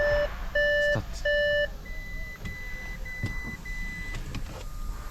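Audi A6 warning beeper sounding: three loud, clear beeps about half a second apart, followed by four quieter, higher-pitched beeps in a row.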